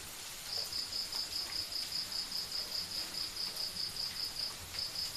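Cricket chirping in an even, high-pitched run of pulses, about five a second, pausing briefly near the start and again about four and a half seconds in, over a faint steady hiss.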